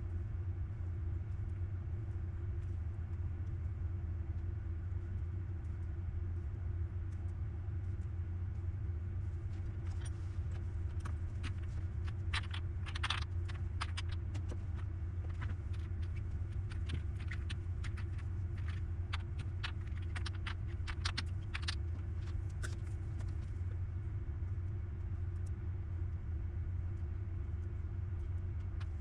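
Steady low hum, with a run of light clicks and taps in the middle.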